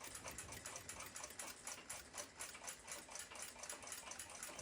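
Seikosha ship's clock with a balance-wheel escapement, ticking faintly in rapid, even beats while running.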